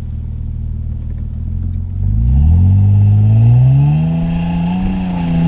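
Nissan Pathfinder's engine running at low revs, then revving up about two seconds in and held high as the SUV ploughs through snow deep enough to reach its front bumper.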